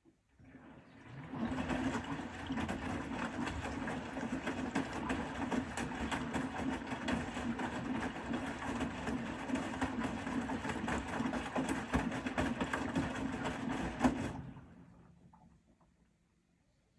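Bosch Serie 4 (WAK20260TR) front-loading washing machine turning its drum mid-wash. The motor starts about half a second in and runs steadily with a low hum and the clatter of the tumbling load for about thirteen seconds, then winds down and stops: one stroke of the drum's stop-start tumble cycle.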